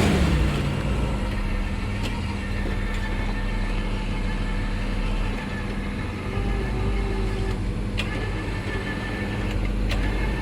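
Vehicle engine running steadily, with a brief rise and fall in revs at the start. A few faint clicks are heard over it.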